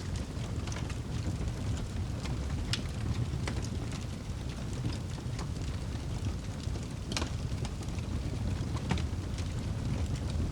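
Wood fire crackling: irregular sharp pops and snaps over a steady low rumble, with the loudest pop about seven seconds in.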